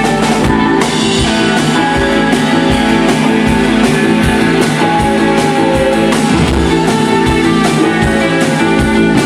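Loud rock music played by a band with guitars and drum kit, sustained guitar chords over a steady drum beat.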